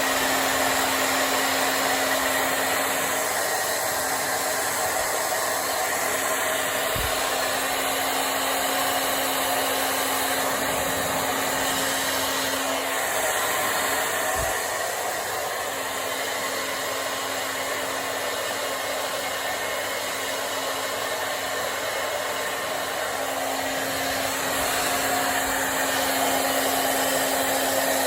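Handheld hair dryer blowing steadily, a rush of air over a steady motor hum, dipping slightly in level midway through.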